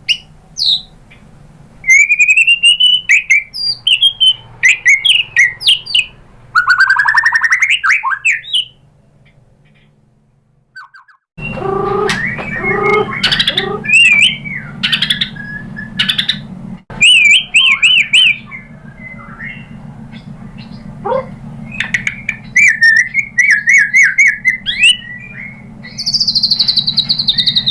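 White-rumped shama singing: a loud, varied run of whistles, quick chirps and trills, broken by a pause of about two seconds a little before halfway. After the pause a steady low hum lies beneath the song.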